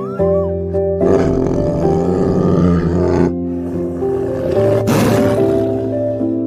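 Tiger roaring in a rough, drawn-out growl that starts about a second in and lasts about two seconds, then a shorter harsh burst around five seconds, over soft piano music.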